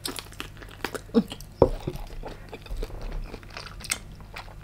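Close-miked chewing of firm, crunchy giant tiger prawn meat: a string of small wet crunches and mouth clicks, with one louder snap a little past a second and a half in.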